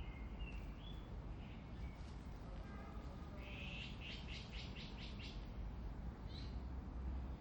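Small birds calling with short high chirps, with a quick run of about six repeated notes a little past the middle. A steady low rumble lies underneath.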